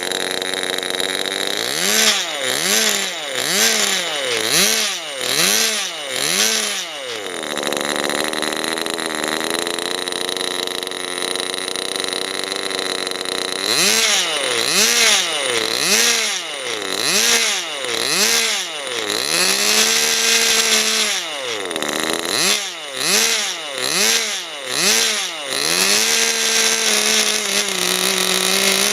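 Early-1960s O.S. Max 19 model marine engine, a small two-stroke glow engine, running on test with a buzzy note. Its revs rise and fall rapidly over and over as the throttle is worked, in three spells, with steadier running between them.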